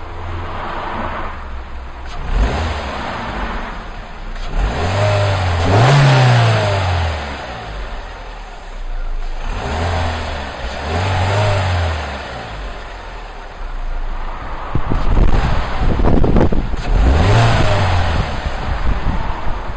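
Suzuki Swift Sport's 1.6-litre four-cylinder engine idling and revved up and back down four times; the highest rev comes about five seconds in. A burst of rushing noise comes near the end.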